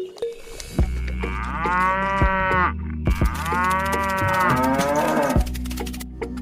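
A cow mooing twice, each moo a long call of one to two seconds, over background music.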